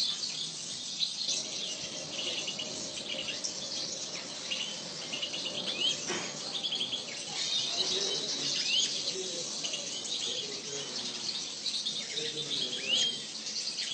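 A flock of small aviary finches chirping and twittering together: a dense, continuous run of quick high calls and short rising chirps.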